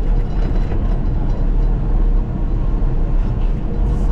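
Caterpillar D6K2 XL bulldozer's diesel engine running steadily, a low rumble, with a few faint knocks over it.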